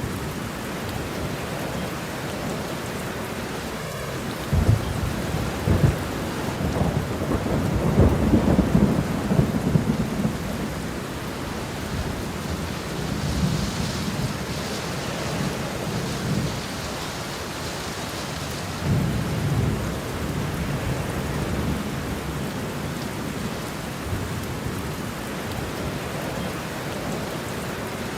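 Steady rain with thunder rolling in and out. The longest, loudest rumble comes a few seconds in and lasts about six seconds; a shorter one follows about two-thirds of the way through.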